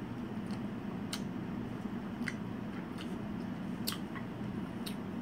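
Eating sounds: a handful of short, scattered mouth clicks and smacks while chewing a spoonful of shaved ice, over a steady low hum.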